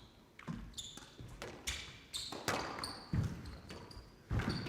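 Squash rally: a run of sharp cracks from the ball being struck by rackets and hitting the court walls, with a few short high squeaks from players' shoes on the court floor.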